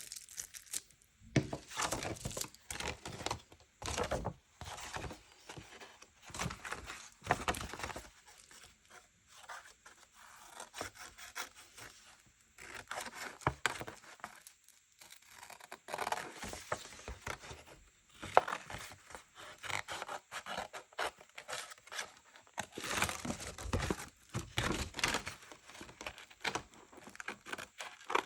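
Paper being torn and crinkled by hand in repeated bursts with short pauses between.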